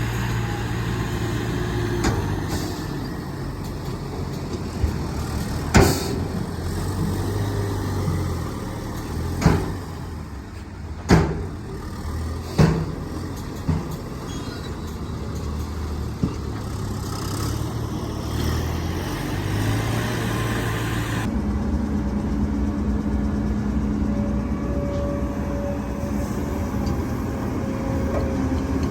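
Heavy diesel earthmoving machinery, an excavator working with dump trucks, running steadily with several sharp clanks between about five and fourteen seconds in. About two-thirds of the way through, the engine note changes abruptly to a steadier, higher drone.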